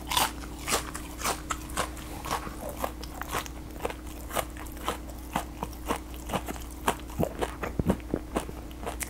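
Close-miked chewing of a deep-fried, batter-coated rasgulla: the crisp fried coating crunches about twice a second as it is chewed.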